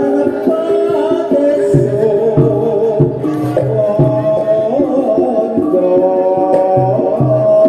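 Javanese gamelan music for a jathilan (kuda lumping) troupe: many held metallic notes over a steady beat on a hand drum, played loud through a sound system.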